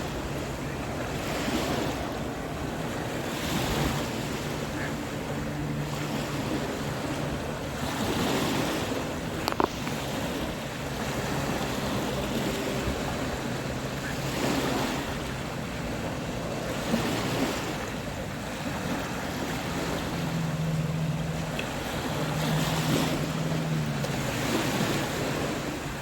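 Ocean waves breaking on the shore, the surf swelling and falling back every few seconds, with one sharp click about ten seconds in.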